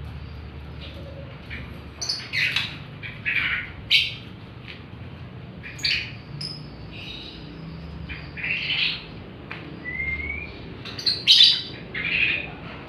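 Pet birds calling: irregular short chirps and harsh squawks, with a brief rising whistle about ten seconds in.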